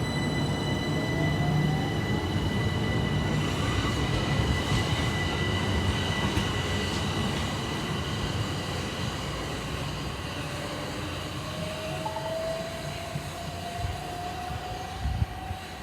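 Class 377 Electrostar electric multiple unit accelerating away and fading. Its steady running hum is overlaid by electrical whines, one of which rises steadily in pitch in the second half as the train gathers speed.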